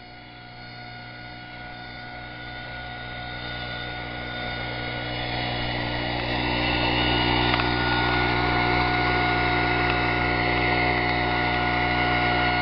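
25cc four-stroke leaf blower engine running at high speed with a steady pitch, growing louder over the first several seconds and then holding steady. It is running on a low-octane test fuel of about 80% natural gasoline.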